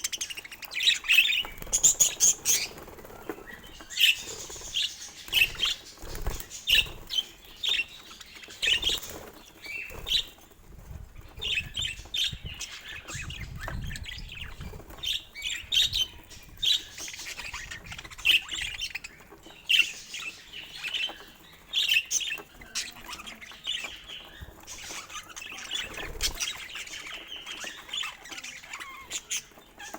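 Budgerigar chirping and chattering in quick, short calls throughout, with a few soft low thumps among them.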